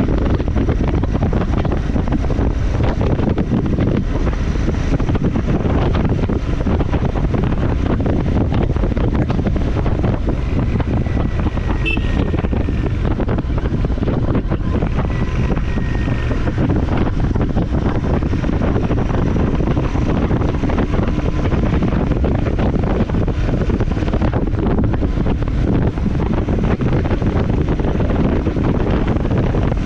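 Motorcycle riding along the road: a steady mix of engine and tyre noise with wind buffeting the microphone.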